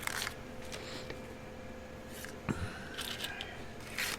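Small plastic parts bag crinkling and rustling in a handful of short bursts as small model parts are slid back into it.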